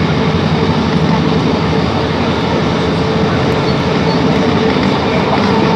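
Class 165 diesel multiple unit running along the line, heard from inside the carriage: a steady diesel engine and transmission drone with a held tone, over continuous wheel-on-rail noise.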